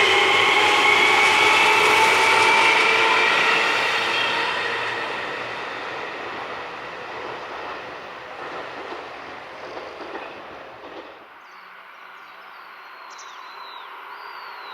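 Seibu 2000 series electric train with field-chopper control pulling away: its traction motors whine, rising slowly in pitch as it accelerates, then the sound fades steadily as the train draws off.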